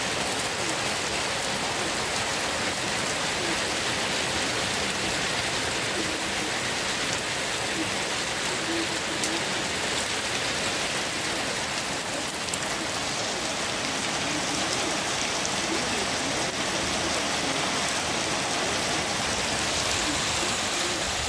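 Heavy rain pouring down steadily, spattering on a porch roof and the waterlogged ground.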